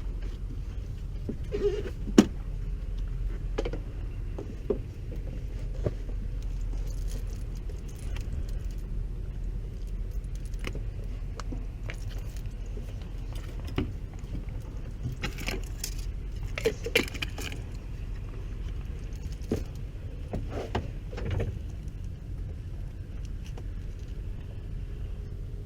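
Intermittent metallic clinks and jangling rattles of small metal parts being handled, in scattered clusters, over a steady low rumble.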